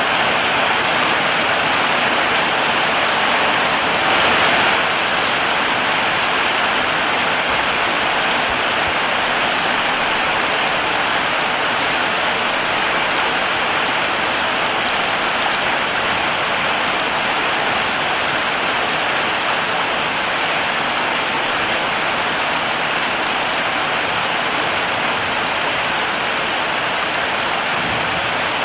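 Heavy rain falling steadily, an even hiss of many drops, briefly a little louder about four seconds in.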